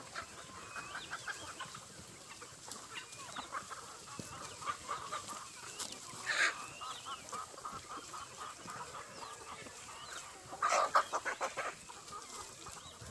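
Chickens clucking as they forage, with short calls throughout. One louder call comes about halfway through, and a quick run of louder clucks comes about two-thirds of the way through.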